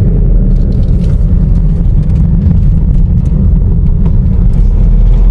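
Car driving up a hill road, heard from inside the cabin: a steady low rumble of engine and road noise.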